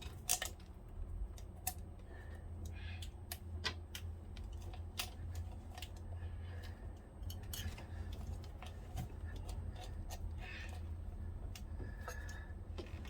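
Scattered metallic clicks and clinks of hand tools on bolts and the starter-motor bracket of a marine diesel, coming irregularly every half-second or so over a steady low hum.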